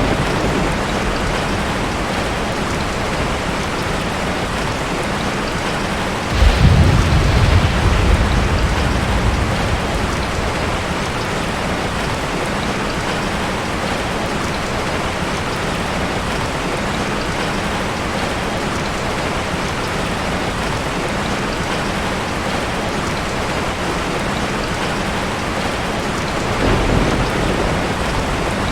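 Heavy rain falling steadily on a tin roof. A roll of thunder starts suddenly about six seconds in and dies away over a few seconds, and a fainter rumble comes near the end.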